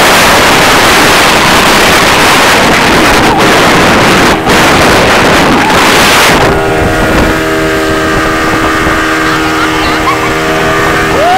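Motorboat engine running steadily, with a loud rush of wind and spray on the microphone for about the first six seconds; after that the engine's drone comes through more clearly.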